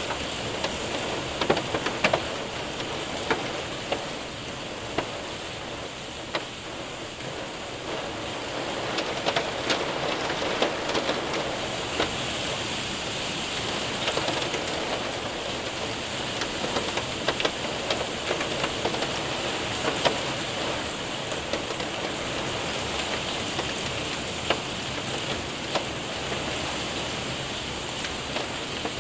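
Steady heavy rain with hailstones pattering and ticking against a window and roof, with frequent sharp irregular impacts over the constant hiss of the rain.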